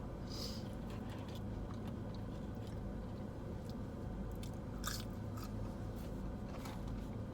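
A person chewing food close to the microphone, with a few brief crunchy bites, over a steady low hum.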